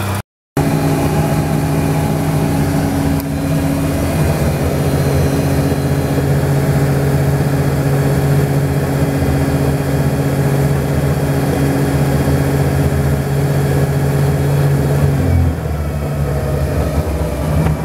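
Chevrolet Opala's inline-six engine running steadily just after being started, easing down to a slightly lower, quieter idle about fifteen seconds in.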